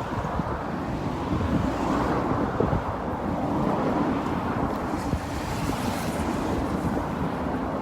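Wind buffeting the microphone outdoors: a steady rumbling rush with irregular low gusts, and no distinct event.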